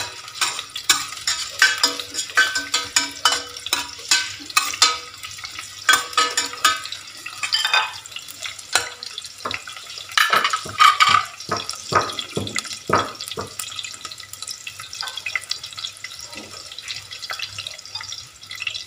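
Sliced shallots frying in hot oil in a stainless steel pot, sautéed until fragrant: a sizzle under repeated scrapes and clinks of a metal spatula stirring them. The clinks thin out in the last few seconds, leaving a quieter sizzle.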